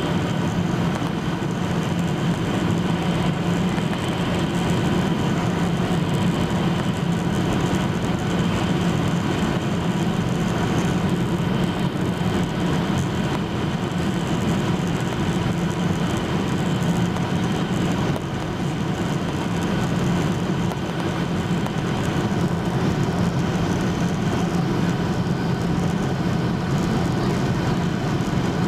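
Steady cabin drone of a Boeing 737-800 in flight, from its CFM56 engines and the airflow past the fuselage, heard from a seat beside the wing. A low hum runs under it with faint steady whining tones, and the level barely changes.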